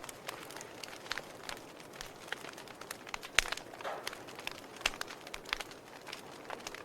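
Fireplace fire crackling: irregular sharp pops and snaps over a soft steady hiss, the loudest pop about three and a half seconds in.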